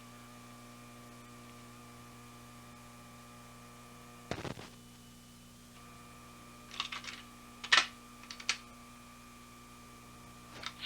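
Steady electrical hum with a handful of short, sharp clicks scattered through it, the loudest about three quarters of the way in.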